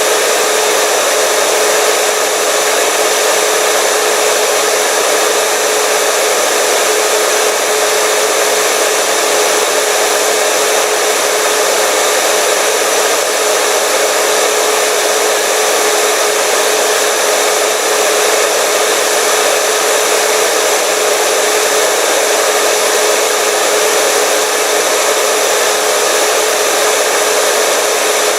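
Hair dryer running steadily: a loud, even rush of air with a constant motor whine, no change in speed.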